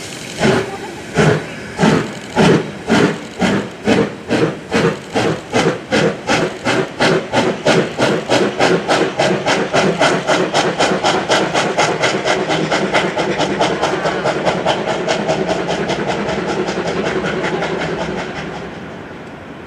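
JNR C57 class two-cylinder steam locomotive No. 1 starting hard, its exhaust beats ('draft sound') quickening from slow, separate chuffs into a fast continuous rush as it accelerates, then dropping away near the end.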